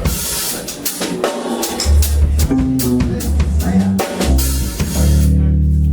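Live band music: a drum kit playing with snare and bass drum hits, joined about two seconds in by heavy sustained bass notes.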